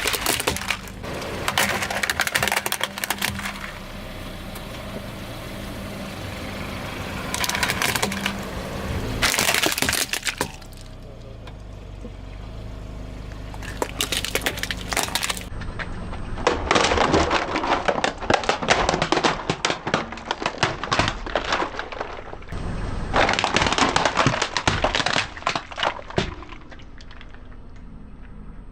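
Crunchy objects being crushed under a car's tyre, in about five bouts of dense crackling and snapping, over the car's low steady running.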